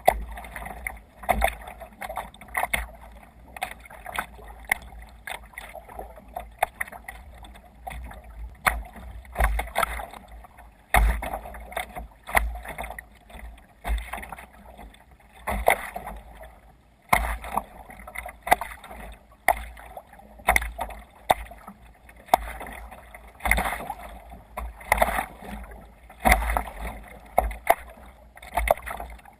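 Water splashing and slapping against a sea kayak's hull in irregular bursts a second or two apart, over a steady low rumble of wind and water.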